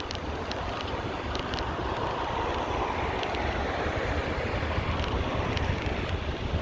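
Wind buffeting the microphone of a moving bicycle, with a broad rushing noise of street traffic that swells and fades about halfway through, and a few light clicks and rattles.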